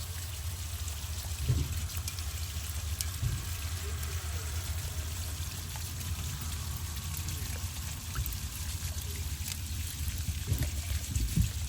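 Water pouring down a rain chain and trickling and splashing into an anchoring bowl, steady throughout, with a few dull thumps about a second and a half in and near the end.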